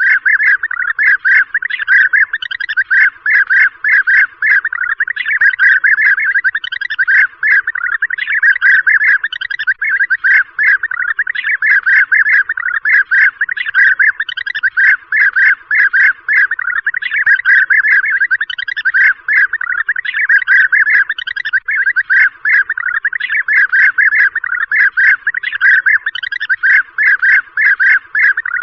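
A flock of European bee-eaters calling: many short, rolling calls repeated rapidly and overlapping without a break, as played back for a hunting lure.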